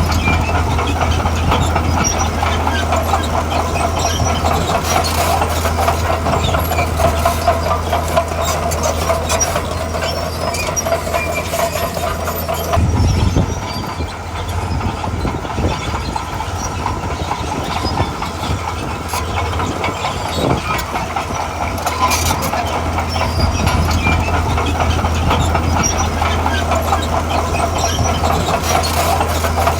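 Heavy diesel earthmoving machine running under load, its engine humming steadily with steel tracks clanking and rattling. The engine note shifts and dips briefly about halfway through.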